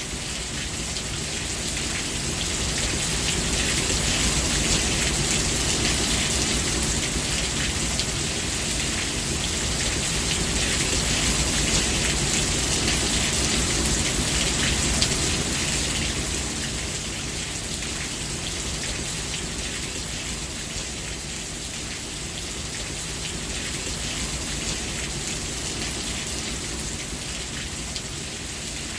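Steady rainfall, a dense patter of drops on surfaces that swells a little louder in the first half and eases off toward the end.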